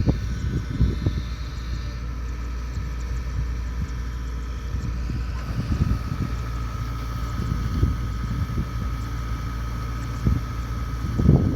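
Kubota DC70 Pro combine harvester's diesel engine running steadily under working load, with a thin, steady whine joining in about halfway through.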